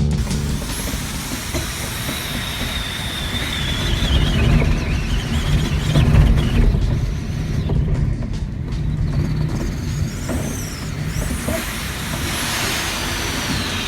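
Hurricane-force wind blowing over a cruise ship: a constant heavy rush with a low rumble, and a thin whistle that slides down in pitch about four to six seconds in and another brief whistle around the tenth second.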